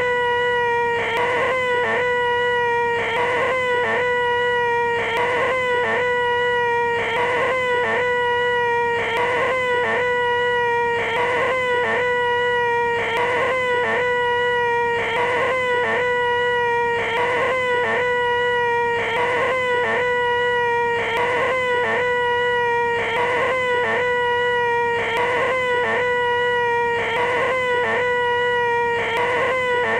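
A man's voice making "the most annoying sound in the world": a single held, high-pitched whine, looped over and over with a short break about every two seconds.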